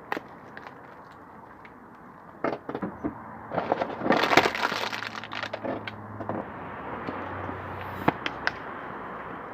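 Car tyre rolling over and crushing brittle objects: a few sharp cracks, then a dense burst of crunching and snapping about four seconds in, and two more sharp cracks near the end. A low steady hum of the car runs under the second half.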